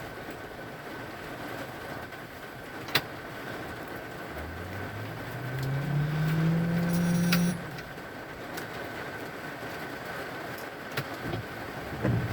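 Steady hiss of heavy rain, with a vehicle engine rising in pitch as it accelerates for about three seconds in the middle. There are a few sharp clicks.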